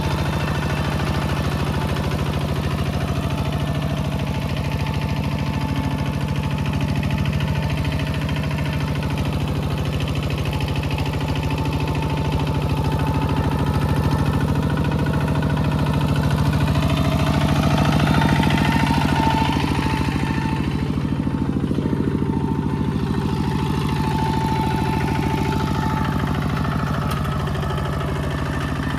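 Mini tractor engine running steadily, a little louder about two-thirds of the way through.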